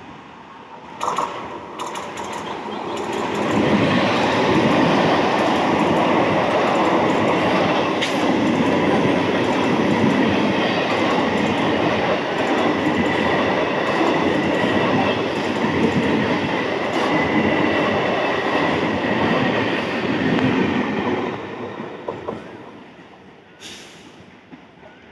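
Electric multiple-unit (EMU) local train passing close by on the adjacent track: the sound builds over the first few seconds, stays loud for about eighteen seconds as the coaches go by, then fades as the train draws away.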